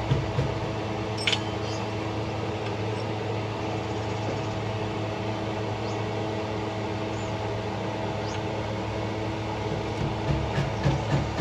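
Steady mechanical hum from a running motor or machine, with a short sharp metallic click about a second in.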